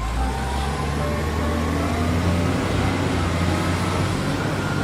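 A steady, low engine-like rumble with a hiss over it.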